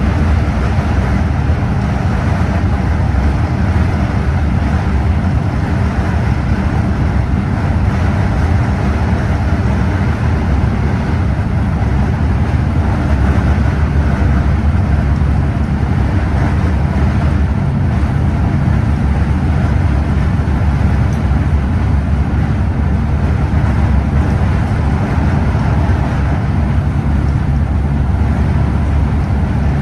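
Scania OmniExpress coach driving steadily: a constant low engine rumble mixed with road noise, with no change in pace.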